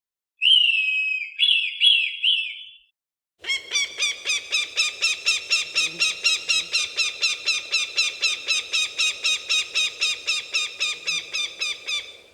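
Falcon calling: a short call with a few slurred notes, then after a pause a long, rapid, even series of sharp, high calls at about four a second, like a raptor's alarm cackle.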